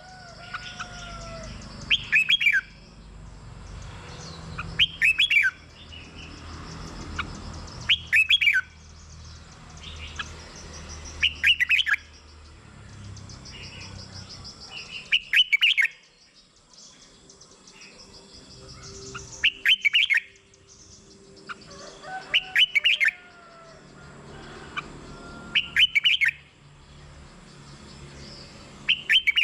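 Red-whiskered bulbul singing: short, loud, warbling phrases repeated about every three seconds, with softer bird calls between them.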